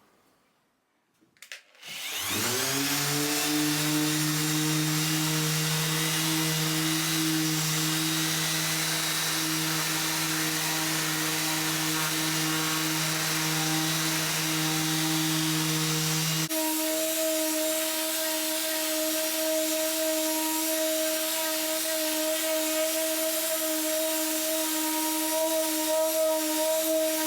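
An electric power tool is switched on with a click, spins up and runs steadily. Its tone changes abruptly about two-thirds of the way through, and it keeps running.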